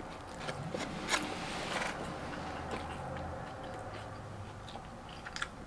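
Close-up mouth sounds of a person biting into and chewing a McDonald's Chicken Big Mac, with a couple of short crunchy crackles about one and two seconds in.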